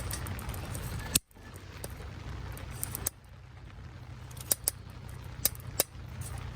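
Wood fire burning in a Solo Stove, crackling with several sharp pops, over a steady background of falling rain.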